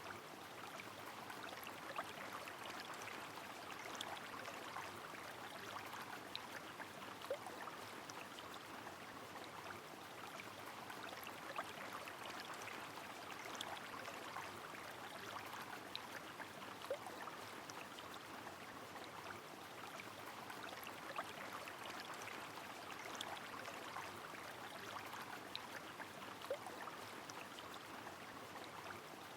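Steady rush of a flowing river under falling rain, scattered with small sharp drip ticks.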